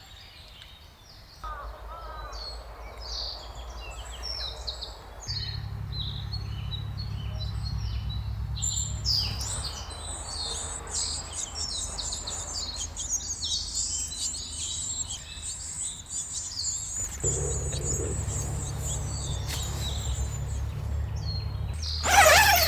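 Forest birds chirping and singing, many short calls overlapping, busier from about nine seconds in. A low rumble comes and goes underneath, and there is a brief loud noise near the end.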